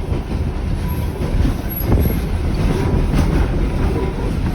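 Heritage train carriage running along the track, heard on board: a steady rumble of wheels on rail with occasional clacks over the rail joints.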